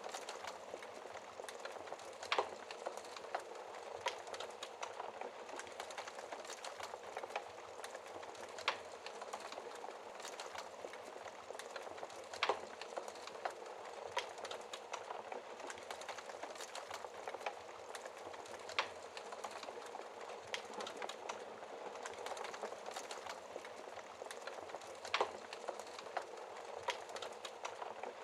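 Wood fire burning in a fireplace: a steady crackle and hiss, with a sharper pop of the burning wood every few seconds.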